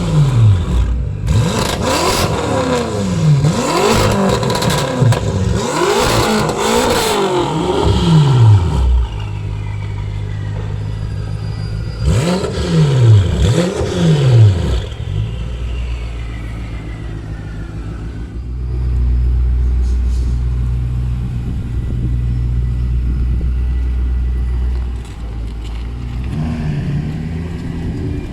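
2014 BMW M5's twin-turbo V8 through a straight-piped custom stainless steel exhaust with the back boxes removed, revved in a series of quick blips in the first several seconds. It settles to idle, gets another burst of two or three blips about halfway through, then keeps running at a steady low idle.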